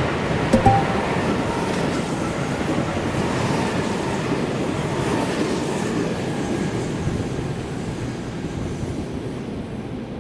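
A passenger train running past, its wheels clattering over the rail joints, with a sharp knock about half a second in; the sound fades gradually near the end.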